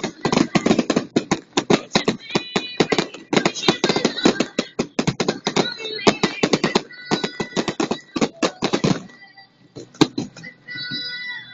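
Aerial fireworks going off in a rapid, dense barrage of bangs and crackling reports that stops about nine seconds in, followed by one last single bang.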